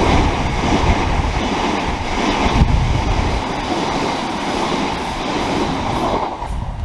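Electric multiple-unit train running through the station, a steady rush of wheel and rail noise that dies away near the end.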